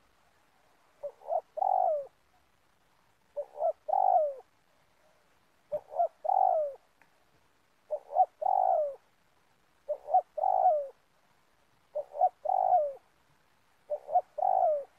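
Spotted dove cooing: seven repeated phrases about two seconds apart, each two short coos followed by a longer falling coo.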